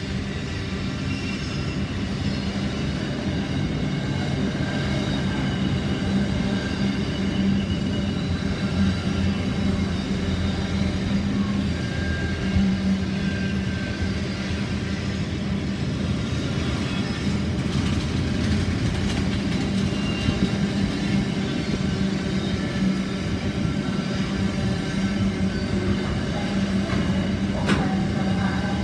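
Pacific National freight train running steadily, a continuous rumble with a steady low hum throughout.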